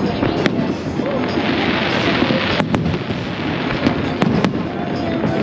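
Aerial fireworks bursting: a continuous rumble of shell bursts, punctuated by several sharp bangs, with a stretch of crackling hiss from crackle-effect shells about a second and a half in.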